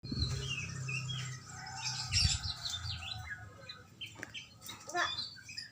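Small birds chirping with many quick, short, falling notes, over a low steady hum during the first two seconds.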